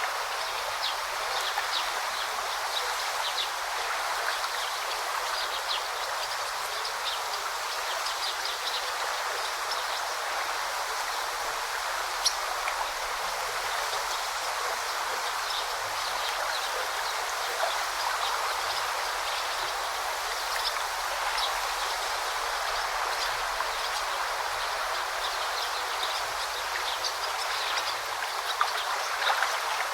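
Forest stream babbling steadily, with many small splashing ticks of water and one sharper click about twelve seconds in.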